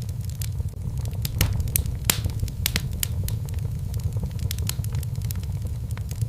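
Wood fire crackling in a fireplace: a steady low rumble with irregular sharp pops and snaps, two of them louder about one and a half and two seconds in.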